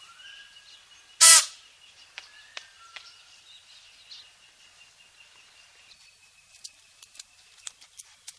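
Outdoor natural ambience with faint bird chirps and scattered short clicks, and one short, loud, high call about a second in.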